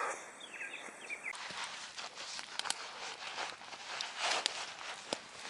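Campfire crackling: irregular sharp pops and clicks of burning wood.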